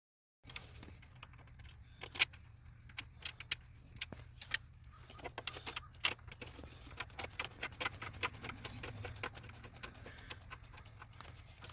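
Metal hand tools and engine parts clinking and tapping irregularly during reassembly in the engine bay, over a steady low hum.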